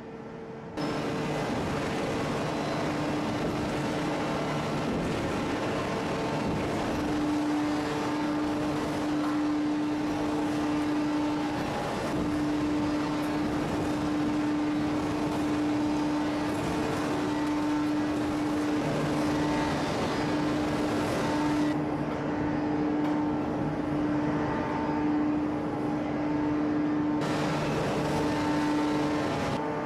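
Heavy hydraulic forging press and its machinery running: a loud, steady hum with two steady tones over broad noise. It starts abruptly about a second in and carries on without pause.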